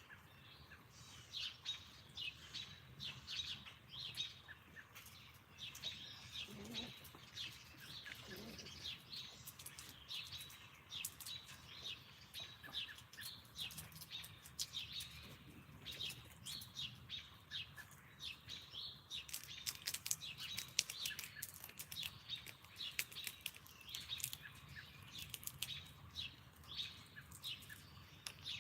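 Small songbirds at a backyard feeder chirping in many short, high calls, with a busy run of sharp clicks about two thirds of the way through.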